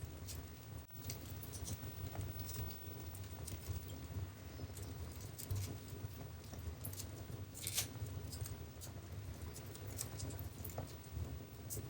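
Wood fire burning in a fireplace with a low steady rumble and irregular crackles and pops, one louder snap about eight seconds in.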